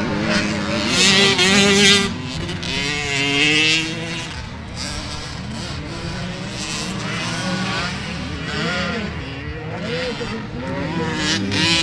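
Several motocross bikes revving and changing gear, their engine notes rising and falling over one another; loudest in the first two seconds and again near the end.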